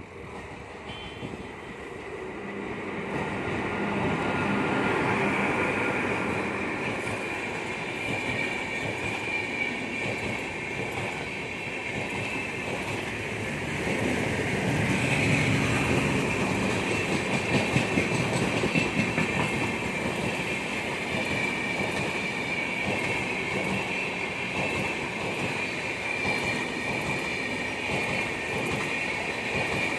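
Indian Railways InterCity Express passenger train rolling past, its wheels clacking steadily over rail joints, with a steady high squeal from the wheels on the rails. The train gets louder a few seconds in and stays loud.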